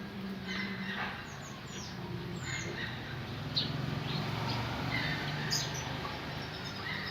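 Canaries chirping in short, scattered calls and quick falling notes, not yet a full song, over a steady low hum.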